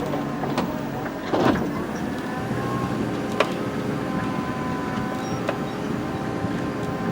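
Motorhome driving slowly, heard from inside the cab: a steady engine and road drone with a faint whine, a thud about a second and a half in, and a few sharp clicks and rattles.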